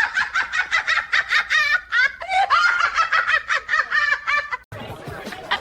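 Rapid, high-pitched laughter, about five bursts a second, that breaks off sharply near the end and gives way to a lower, different sound.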